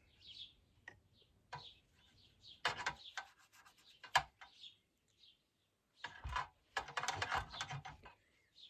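A brush scratching and rubbing over old wood in irregular strokes, with a dense run of quick scrubbing strokes a little after halfway, as a protective coat is worked into the wood.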